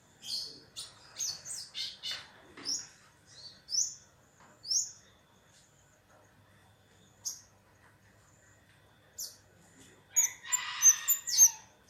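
Kemade songbird calling: short, sharp, rising high-pitched chirps in quick clusters, then a few scattered chirps, and a dense, louder flurry of calls near the end. This is the bird's lively call, used as a lure to draw other kemade birds into answering.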